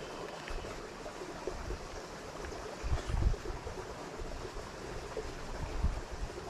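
Water running steadily over a small creek spillway, with two brief low thumps, the louder one about three seconds in.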